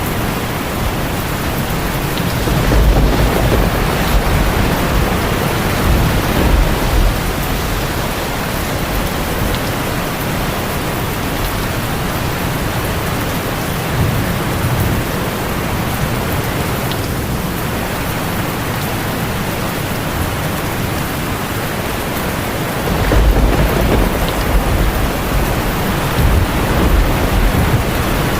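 Heavy rain falling on a tin roof as a steady hiss. Low thunder rumbles twice, a few seconds in and again near the end.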